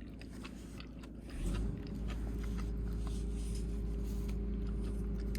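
Close-up crunchy chewing of crispy fried chicken, many small crunches. A steady low rumble comes in about a second and a half in.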